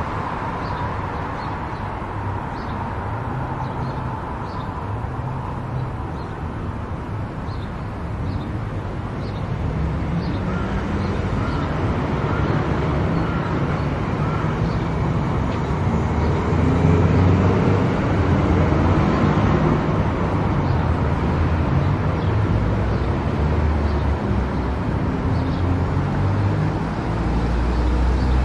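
Steady road noise of a car cruising on an expressway: tyre and engine rumble with shifting low drones, growing a little louder about a third of the way in. Faint regular ticks run through the first half.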